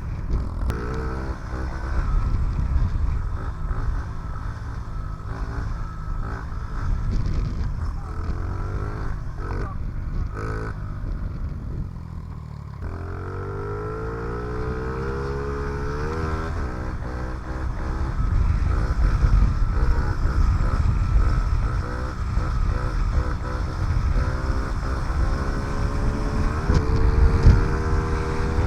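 2007 Honda CRF50F's small single-cylinder four-stroke engine running under way, its pitch rising and falling with the throttle. It drops off about twelve seconds in, then revs back up in a long rising climb, and it rises again near the end.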